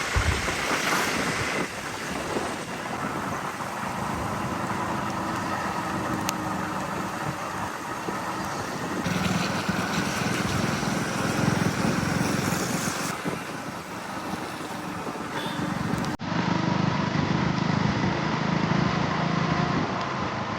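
Vehicle on the move: a steady rumble of engine, road and wind noise, cut off abruptly about 16 s in, where another stretch of similar travel noise begins.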